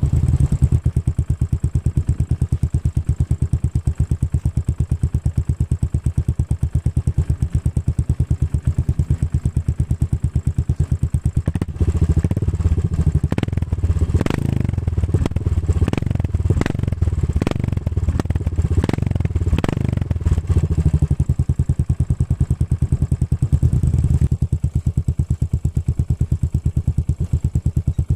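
Royal Enfield Continental GT 535's single-cylinder engine running through an aftermarket exhaust, idling with a steady, even beat. From about twelve seconds in it is revved in a run of sharp throttle blips for around ten seconds, then settles back to idle.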